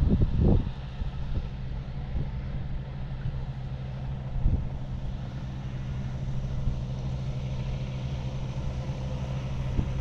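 Steady low rumble and hum of road traffic, with a couple of brief louder moments near the start and about halfway through.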